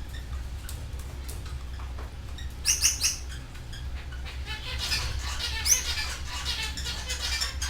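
Canaries calling: a quick group of three or four sharp high calls about three seconds in, then rapid twittering song from about five seconds on, over a steady low hum.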